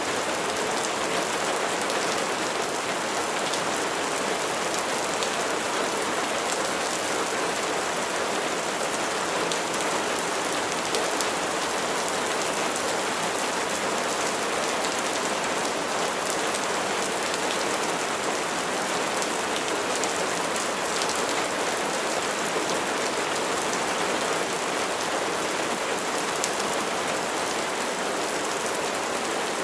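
Steady rain falling on a surface, an even hiss with the patter of individual drops.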